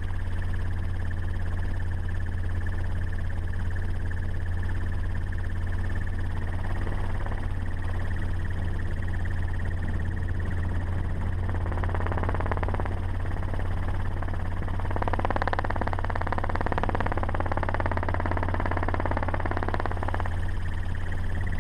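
A vehicle running steadily: a constant low drone, with a wavering higher tone rising over it for a few seconds past the middle.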